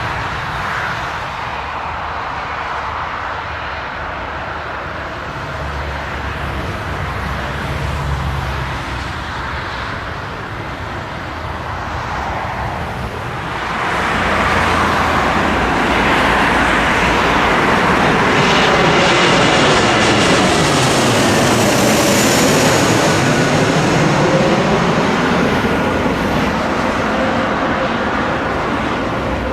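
Jet airliner passing low overhead. A distant engine rumble grows loud about halfway through, with a high engine whine, and stays loud to the end.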